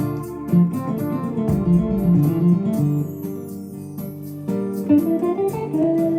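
Korg Pa1000 arranger keyboard playing a factory style: a melody and chords over a bass line and a steady drum beat. The drums drop out for a moment about halfway through, then come back in.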